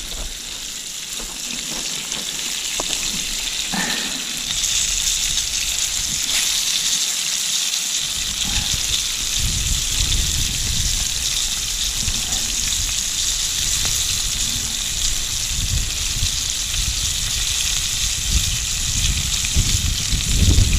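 Perch frying in a pan over a campfire, a steady hissing sizzle that grows louder about four seconds in.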